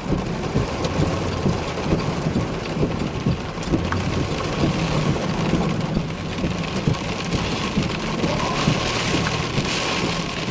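Heavy thunderstorm rain falling, a steady dense patter of drops over a low rumble.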